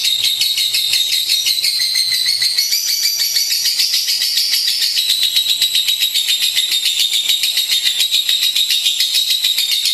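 Lovebird chattering in a long, unbroken run of rapid, high-pitched notes, the pitch rising a little partway through and then settling back.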